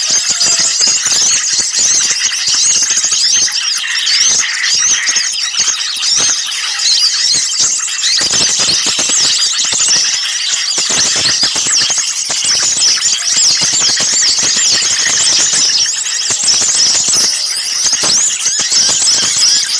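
Dense chorus of many small songbirds calling at once: rapid, overlapping high-pitched chirps and squeaky alarm-like calls, agitated and without pause, the kind of mixed mobbing racket used as a bird lure.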